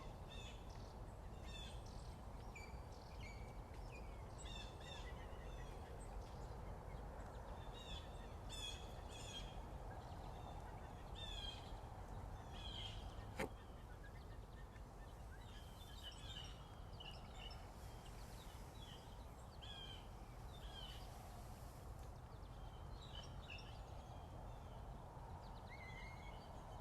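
Morning bird song: several small birds chirping and singing in short, quick phrases over a steady low background noise. A single sharp click about halfway through.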